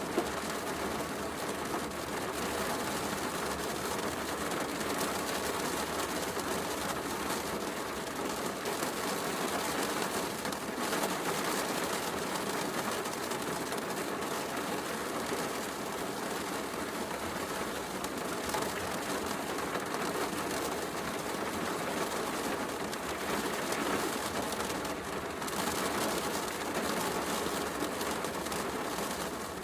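Steady heavy rain mixed with a fireplace crackling, with one sharp pop just after the start.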